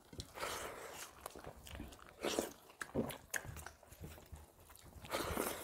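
Two people chewing mouthfuls of rice and chicken-spinach curry eaten by hand: wet chewing and lip-smacking, with a few louder smacks at irregular moments.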